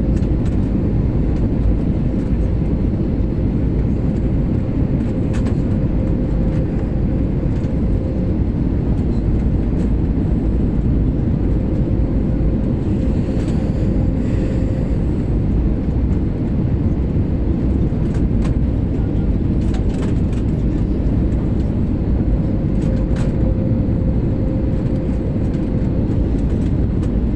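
Airliner cabin noise in flight: a loud, steady low rumble of engines and rushing air, with a faint steady hum above it.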